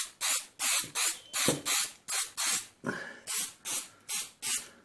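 Aerosol can of clear lacquer spraying in quick short hissing bursts, about three a second.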